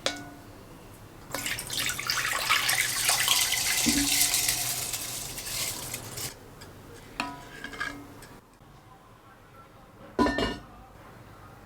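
Kitchen sounds: about five seconds of running, splashing water with dishes clinking. This is followed by a few clinks of crockery and a single loud knock near the end.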